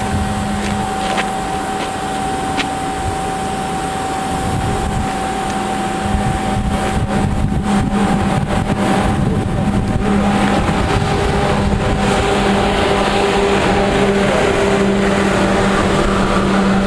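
Eurostar Class 373 high-speed train approaching and passing through the station at speed. Its rumble builds from about six seconds in and fills the last part. A steady electric hum runs underneath.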